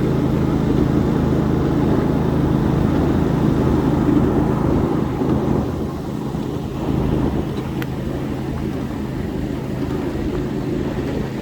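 Ride-on 7.5-inch gauge miniature train running along the track, heard from aboard: a steady low rumble of the locomotive and wheels, easing slightly about halfway through.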